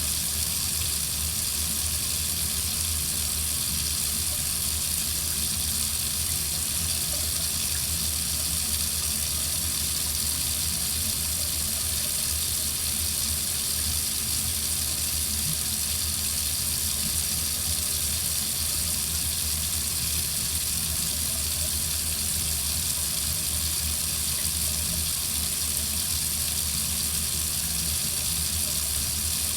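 Water running steadily from a faucet into a sink, an even hiss with a low rumble underneath.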